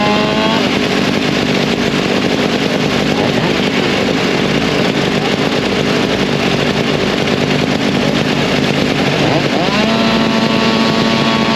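Eastonmade 22-28 log splitter's gas engine. Its pitch drops about half a second in as it takes the load of a split, and it runs steadily under load. Near the end its speed rises back and settles at a steady, clean running pitch.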